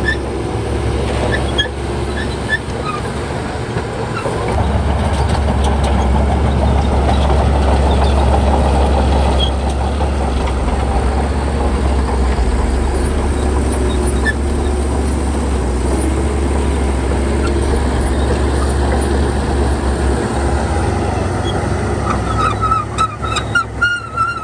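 Shantui bulldozer's diesel engine running steadily at work, its deep drone growing stronger about four seconds in. Near the end a quick run of short metallic squeaks and clicks.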